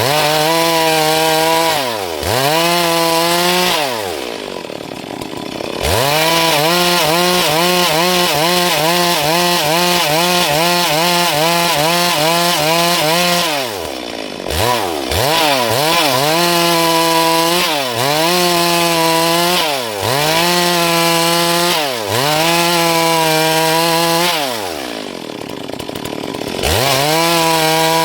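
Stihl MS382 two-stroke chainsaw cutting into dry wood, its engine pitch sagging under load and climbing back again and again. Twice it drops back to a lower, quieter speed for a couple of seconds: once about four seconds in and once near the end. In between comes a stretch where the pitch wavers about twice a second as the chain works through the cut.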